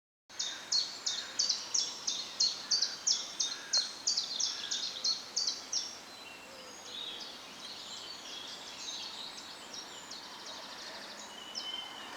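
Songbird singing outdoors: a rapid series of high repeated notes, about three a second, for the first six seconds, then fainter, looser chirping.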